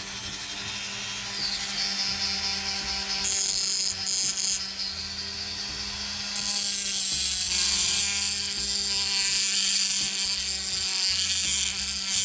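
A small handheld power tool running steadily with a constant hum while grinding or sanding, the grinding growing harsher about halfway through.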